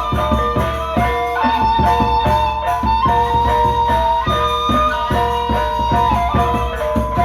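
Gendang beleq ensemble, the Sasak drum-and-gong music of Lombok, playing: regular drum strokes under a held melody that steps from note to note.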